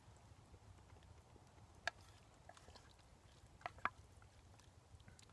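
Near silence with a few faint, sharp clicks: one about two seconds in and two close together a little before four seconds.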